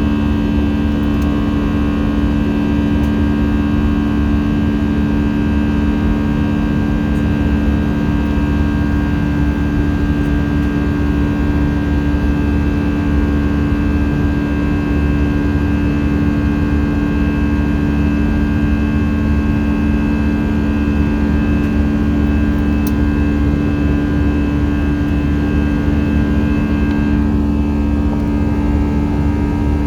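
Airbus A319 cabin noise heard from a seat near the front: a steady drone of the jet engines and airflow with a strong low hum, the higher tones shifting slightly near the end.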